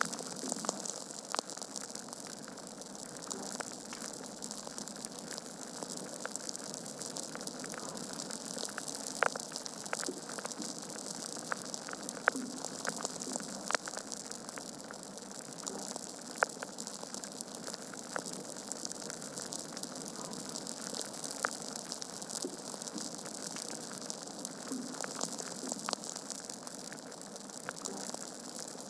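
Wood fire burning in a fireplace: a steady hiss of flames with frequent sharp crackles and pops from the burning logs.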